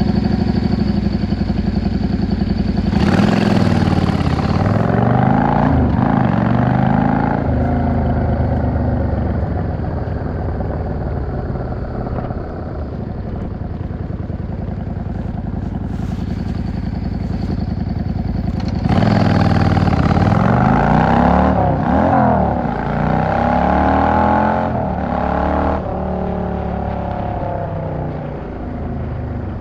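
Yamaha XVS 650 V-Star's air-cooled V-twin engine running at low revs, then pulling away about three seconds in, the pitch rising and dropping back at each of a few quick upshifts before settling into a steady cruise. About two-thirds of the way through it accelerates again through several more gear changes, then eases off.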